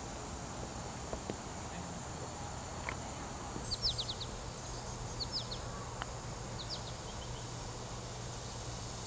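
Birds chirping in quick runs of three or four short falling notes, a few times through the middle, over a steady outdoor background with insects buzzing faintly.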